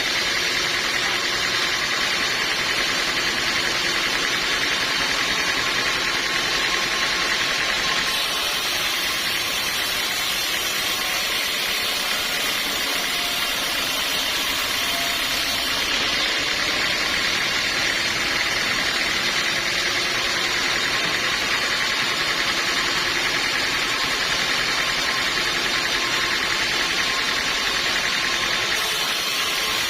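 Sawmill machinery running steadily, its sound changing abruptly about 8 and 16 seconds in and again near the end.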